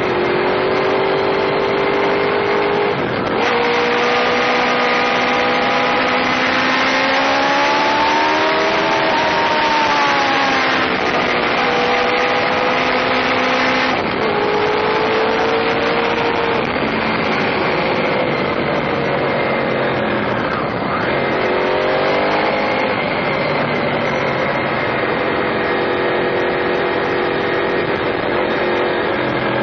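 Honda VFR800 FI's V4 engine under way on the road, with wind rushing over the bike-mounted microphone. The engine note steps down abruptly about three seconds and again about fourteen seconds in, as at gear changes, rises and falls with the throttle in between, and settles to a lower note near the end.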